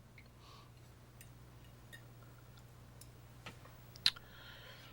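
Quiet room tone with a low steady hum and a few faint scattered clicks, one sharper click about four seconds in.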